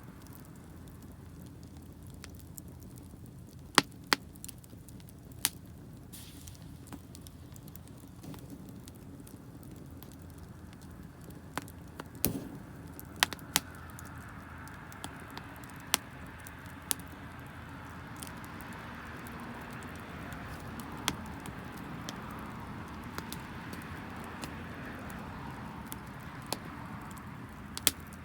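Wood fire burning damp firewood: scattered sharp crackles and pops over a low steady rush, with a hiss that builds about halfway through and fades near the end.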